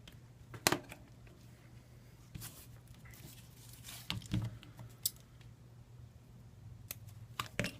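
Scattered small clicks and taps of hand tools and small parts on a disassembled smartphone, over a low steady hum.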